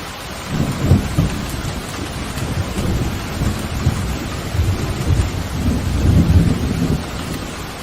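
Thunder rumbling low through steady heavy rain: a first roll about half a second in and a longer, louder one in the second half.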